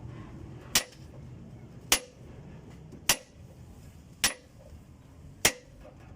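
Hammer blows on a wooden block driving a new cylinder liner into an Isuzu 4BC2 diesel engine block: five sharp strikes, about one a second, each with a short metallic ring.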